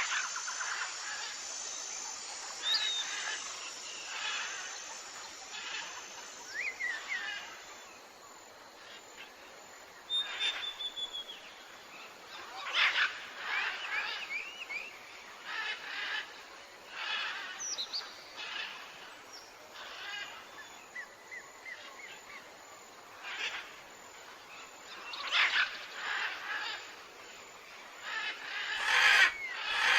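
Several wild birds chirping and calling at irregular intervals, with short trills and quick rising and falling notes, over a steady faint hiss of outdoor background. The loudest calls come near the end.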